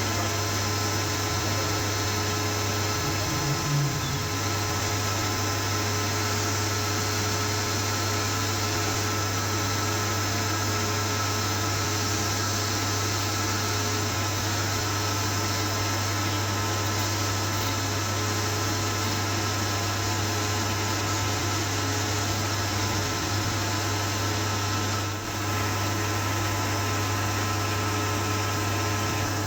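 Steady machine hum from a running motor, unchanging in pitch, with a brief dip about 25 seconds in.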